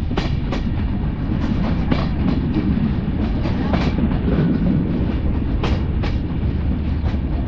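Two trains passing on adjacent tracks, heard from a moving passenger coach's open window: a steady, loud rolling rumble of wheels on rail with irregular sharp clicks from the wheels crossing rail joints, as a diesel-hauled train of oil tank wagons goes by on the next line.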